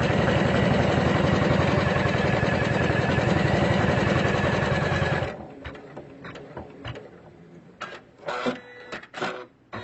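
Usha Janome Memory Craft 550-E computerized embroidery machine stitching out a design at speed with a fast, even needle rhythm. It stops suddenly about five seconds in, followed by a few short clicks and brief mechanical noises.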